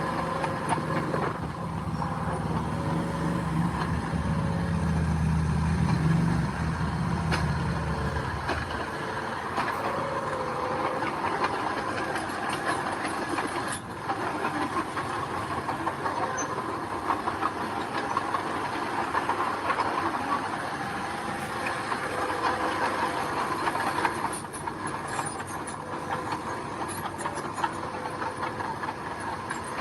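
Mini bulldozer working gravel: its diesel engine runs with a low drone that drops away about nine seconds in, over continual metallic clanking and squealing from its tracks.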